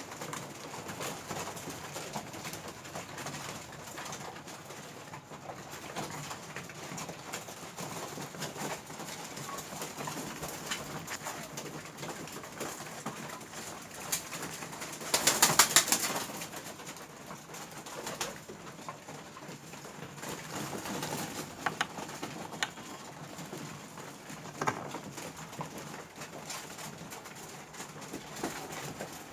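Pigeons cooing in a low, continuous murmur, with scattered sharp ticks of pecking at food. A little past halfway comes a loud, brief burst of clattering.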